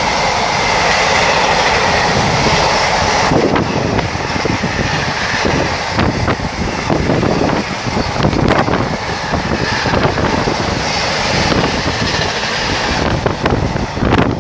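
Freight train hauled by a Class 66 diesel locomotive passing at speed, its wagons rumbling and clattering over the rails.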